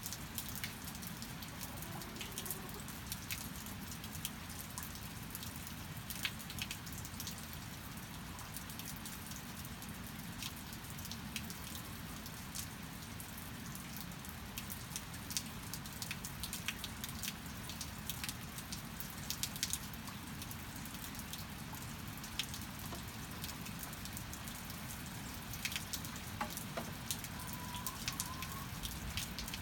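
Steady rain falling, with many separate drops and drips ticking sharply through the even hiss.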